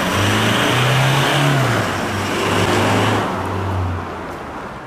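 Toyota Hilux GUN125's 2.4-litre four-cylinder turbodiesel exhaust through a Ganador P.B.S sports muffler, at mid speed. The note rises briefly about a second in, settles back, and fades near the end.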